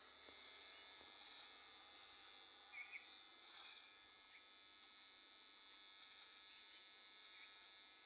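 Faint steady chirring of insects, with a quieter high pulse repeating about twice a second.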